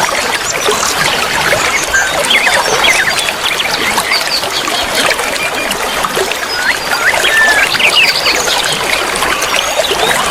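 A dense chorus of many small songbirds chirping and twittering, over a steady trickle of running water.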